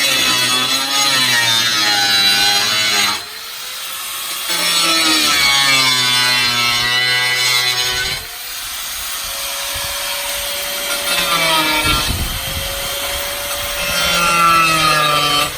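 Electric power tool running and cutting in long loud stretches. Its motor winds down and spins back up to a steady whine twice, about 3 and 8 seconds in.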